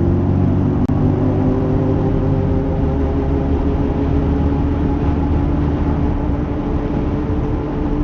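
Failing wheel hub bearing on a Mercedes-Benz SLK (R170) droning steadily while the car is driven, a hum of several steady tones over a low road rumble: the sign of a dying hub bearing.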